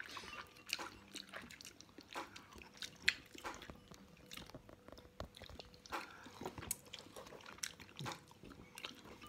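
A person chewing a mouthful of instant ramen noodles, with soft, irregular mouth smacks and clicks.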